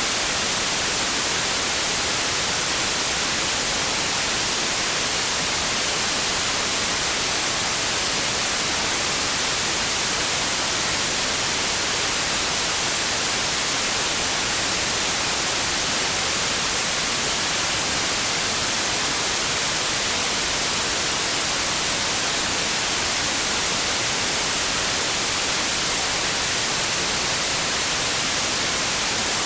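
Steady synthetic white noise: an even, unbroken hiss, strongest in the high end, with no change in level.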